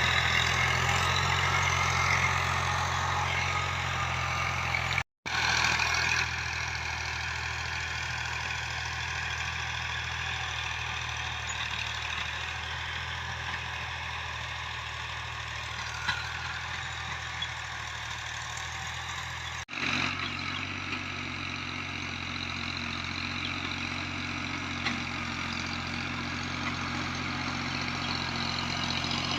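Fiat 480 tractor's diesel engine running steadily while pulling a 14-disc harrow. The sound cuts out abruptly twice, about five seconds in and again about twenty seconds in.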